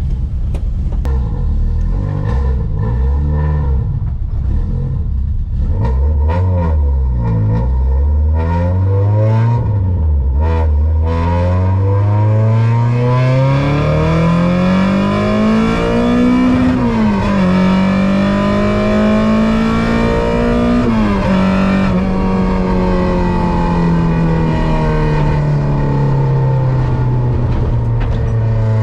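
Peugeot 106 S16's tuned 16-valve four-cylinder engine accelerating hard. After a few uneven rises and dips in pitch at low revs, the note climbs steadily to high revs, drops at a gear change about halfway, climbs again, then falls away gradually as the car slows.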